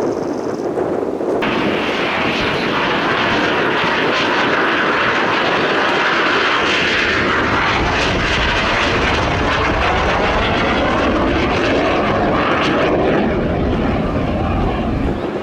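Aermacchi MB-339 PAN jets flying past with a loud, steady turbojet rush. It swells suddenly about a second and a half in, and the tone sweeps as the aircraft pass overhead in the second half.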